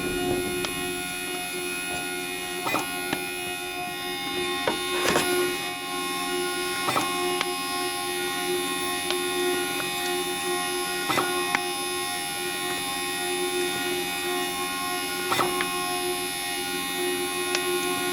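Zebra label printer giving off a steady, sharp squeaking whine made of several held tones, with a sharp click every few seconds.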